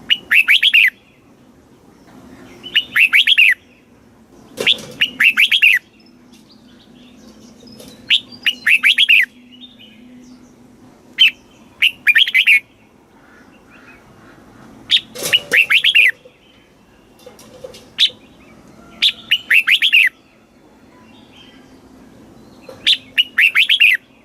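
Red-whiskered bulbul singing in short, clear phrases of about a second each, repeated every two to three seconds; several phrases come doubled.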